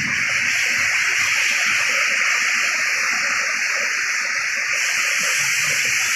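Heavy rain pouring down in a storm, a steady, unbroken hiss.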